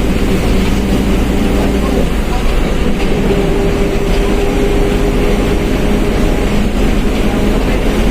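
Mercedes-Benz OF1721 BlueTec 5 bus running under way: steady diesel drone with a whine from the differential, its tones shifting slightly partway through.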